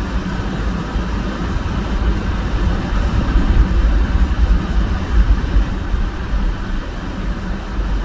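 A car driving: a steady low rumble of engine and tyre noise.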